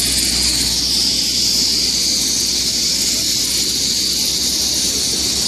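Helicopter landed on the road with its engine and rotor running steadily: a constant rushing noise over a low rumble, with a thin high whine above.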